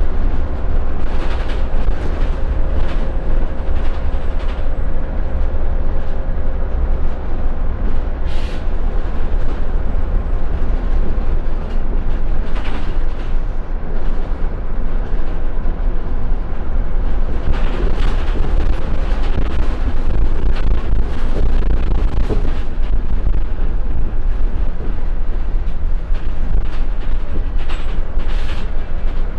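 Scania L94UB Wright Solar single-deck bus under way, heard from inside the cabin: a loud, steady deep rumble of its diesel engine and road noise, with a faint whine during the first several seconds and brief rattles and knocks from the body now and then.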